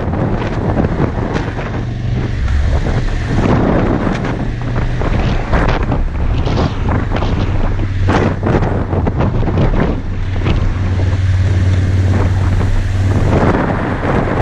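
Strong wind buffeting the microphone in gusts over a motorcycle engine running at a steady low hum.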